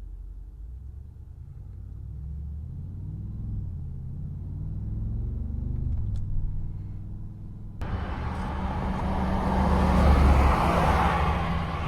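Mercedes-AMG G63's twin-turbo V8 accelerating, its pitch rising and dropping back at a gear change about halfway through. Near the end a sudden loud rush of wind and road noise cuts in over the engine and builds.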